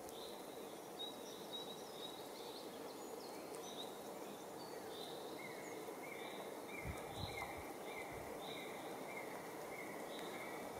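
Faint outdoor ambience of small birds calling: short high chirps repeating about once a second, joined about halfway by a series of lower, short down-slurred notes about twice a second, over a steady hiss. A few faint low thumps a little after halfway.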